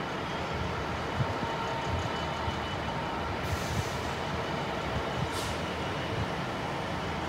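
Stone freight train with loaded aggregate wagons rolling past on the far tracks: a steady low rumble with irregular knocks from the wheels, and two short hisses about halfway through.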